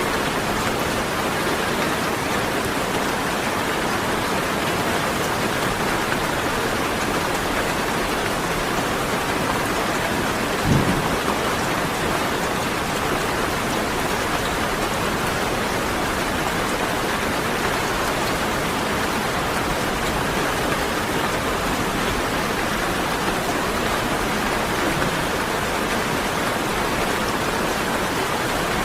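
Steady rain falling, an even hiss throughout. A single brief low thump comes about eleven seconds in.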